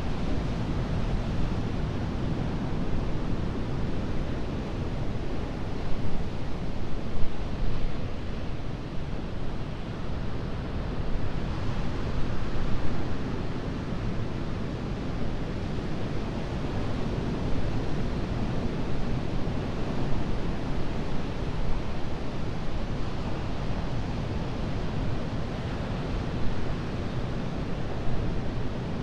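Atlantic surf breaking and washing up the beach: a continuous roar that swells and eases, with stronger surges around six to eight seconds and again near twelve seconds. Wind rumbles on the microphone.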